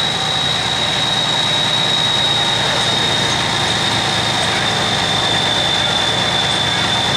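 Super Farm class pulling tractor's turbocharged diesel engine running loud and steady, with a steady high whistle over it.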